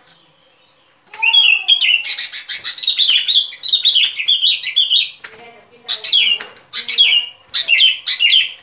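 Bulbul song from a lure recording: quick, bubbly chattering phrases of whistled notes. A long unbroken run starts about a second in, then several short phrases follow in quick succession.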